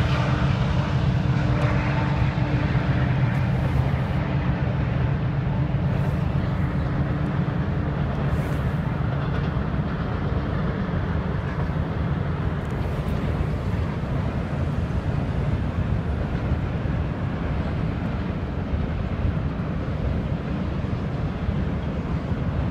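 Double-stack intermodal freight train rolling across a high concrete viaduct: a steady rumble of the passing cars, with a low engine hum that fades out over the first several seconds.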